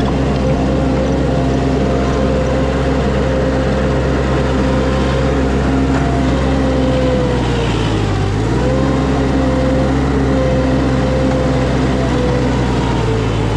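Skid steer engine running steadily at high revs. Its pitch sags briefly about eight seconds in and again near the end, as the engine lugs under load and recovers.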